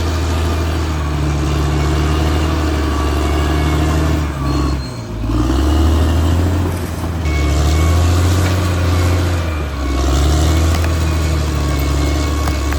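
Caterpillar D6R XL bulldozer's diesel engine running steadily, its note dropping away briefly about five seconds in and again near ten seconds before coming back up.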